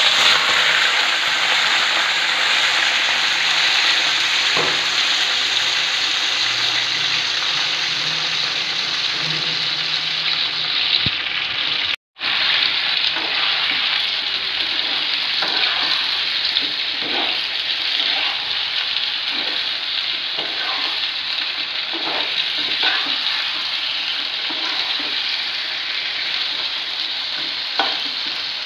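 Raw chicken pieces sizzling loudly and steadily in hot oil in a karahi. In the second half, a wooden spatula knocks and scrapes as the pieces are stirred. The sound drops out for an instant about twelve seconds in.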